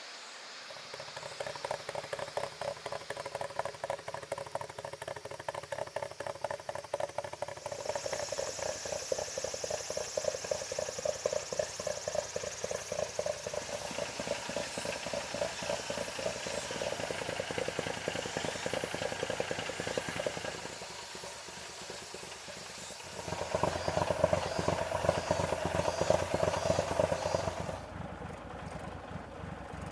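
Toyota AE86's inline-four engine running on a drive, pulsing steadily. It eases off briefly, pulls louder for a few seconds, then drops back near the end.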